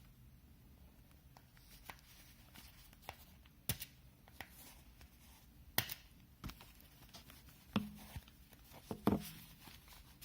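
Plastic pry tool working at the plastic ring on a Beyerdynamic DT 770 headphone earcup: scattered clicks and ticks of plastic on plastic, a few of them sharper snaps, as the tool fails to free the ring.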